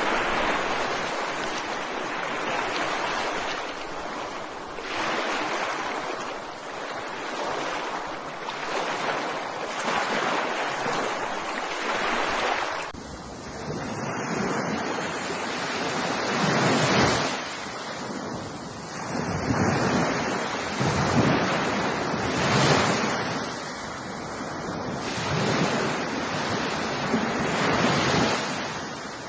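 Ocean surf breaking on a shore, swelling and falling about every two to three seconds. About halfway through, the waves take on a deeper rumble.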